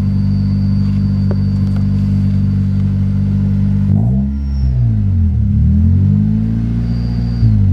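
Honda D16Y8 four-cylinder engine idling high and steady, then, about four seconds in, its revs start rising and falling over and over: the idle is hunting ("teeter-tottering"). The owner takes it for a vacuum leak.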